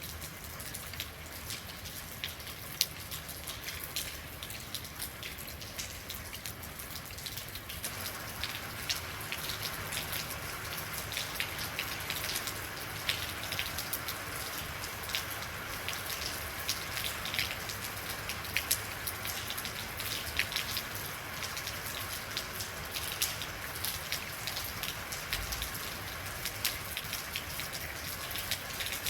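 Real rain falling steadily, with many individual drops ticking and spattering on a surface. It grows a little heavier and denser about eight seconds in.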